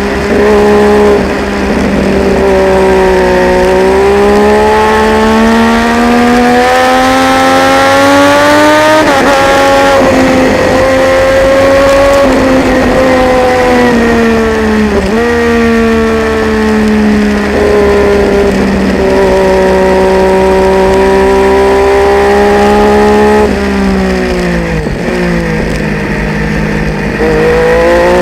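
Triumph Daytona 675's three-cylinder engine at race speed, its pitch climbing as it pulls through the gears and dropping sharply at a shift about a third of the way in. Near the end the revs jerk down several times in quick succession, as at downshifts for a corner, then climb again.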